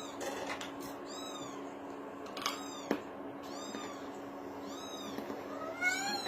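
A kitten mewing: short, high-pitched mews repeated about once a second.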